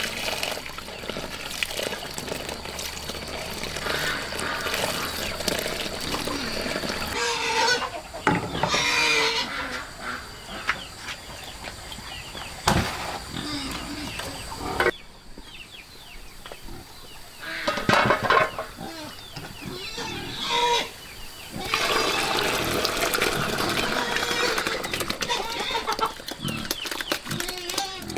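Chickens clucking, in several stretches that change abruptly from one to the next.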